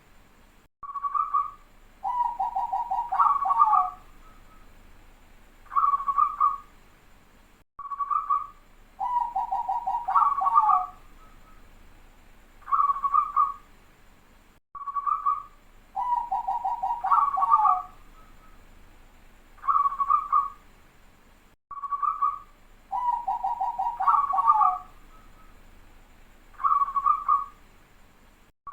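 Zebra dove (perkutut) singing its full, tightly packed song: a short coo, then a rapid rolling trill of coos and a final note, repeated four times with pauses of a few seconds between phrases.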